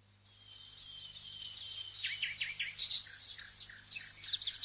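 Birdsong: a run of high chirps and short downward-sweeping calls, fading in from silence and growing louder.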